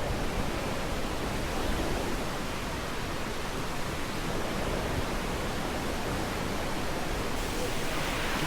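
Steady rushing noise with no distinct events, turning brighter and hissier abruptly near the end.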